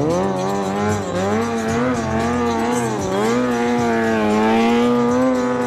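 Kawasaki sport motorcycle engine revving hard under stunt riding, its pitch swinging up and down with the throttle, then held nearly steady at high revs for the last couple of seconds while the bike is held up on its rear wheel in a wheelie.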